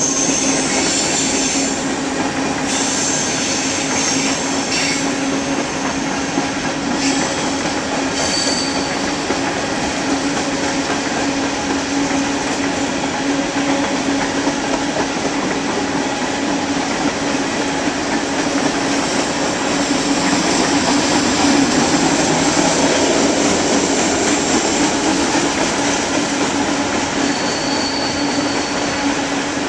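Covered hopper cars of a freight grain train rolling past with a steady rumble of steel wheels on rail. Brief high-pitched wheel squeals come several times in the first nine seconds and once more near the end.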